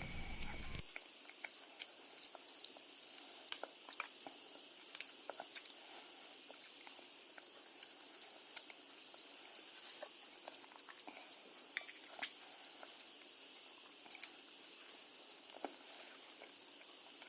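Faint, steady chirring of insects, high-pitched and gently pulsing, with a few scattered light clicks.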